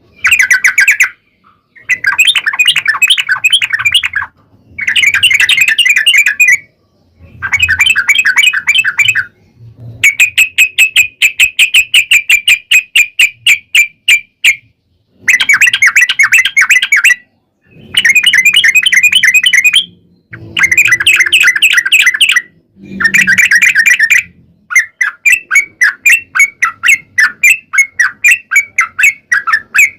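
Yellow-vented bulbul song in loud runs of fast, rolling repeated notes, each run one to four seconds long with short pauses between. Near the end the notes run on with almost no break.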